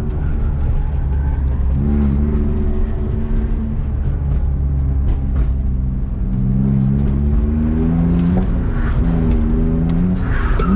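BMW E46's engine running and being revved: its pitch steps up about two seconds in, then climbs and swings up and down several times near the end, over a steady low rumble.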